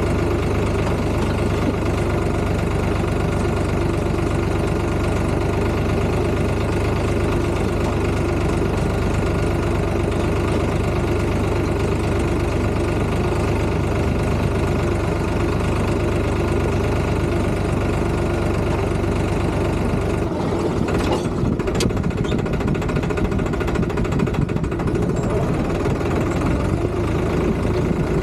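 Tractor's diesel engine running steadily with a constant drone. About two-thirds of the way through, the low rumble turns rougher and uneven, and a couple of sharp clicks sound.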